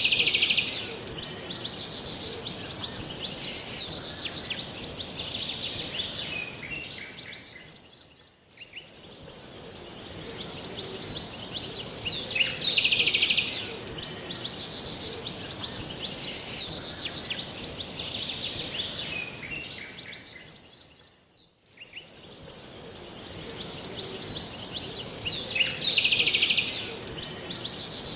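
Bird song: a loud, high burst of chirping about a second long, repeating roughly every 13 seconds, with softer calls between, over a steady high hiss. The sound fades down and back up twice.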